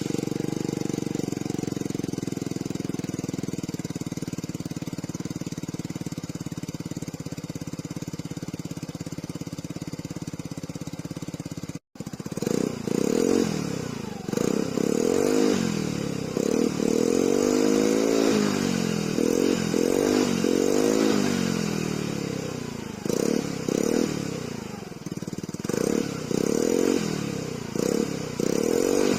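Peugeot Django 125 scooter's single-cylinder engine through an Ixil full aftermarket exhaust, idling steadily just after a cold start. About twelve seconds in there is a brief cut-out, and then the engine is revved over and over, its pitch rising and falling with each blip of the throttle.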